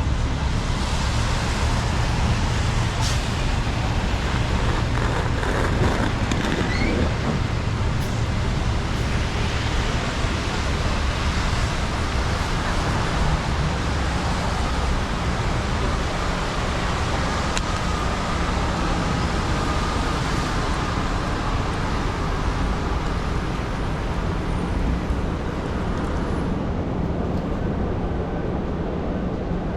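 Steady city street traffic noise: motor vehicles running and passing, with a continuous low rumble.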